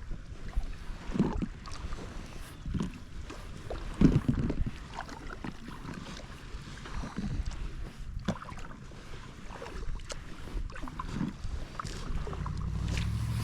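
Kayak paddling: irregular paddle splashes in the water and occasional knocks, the loudest about four seconds in, with wind rumbling on the microphone, heaviest near the end.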